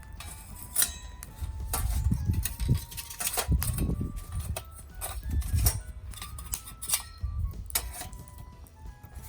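Irregular metal clanks and knocks from a small fire pit being handled and set up, with faint background music.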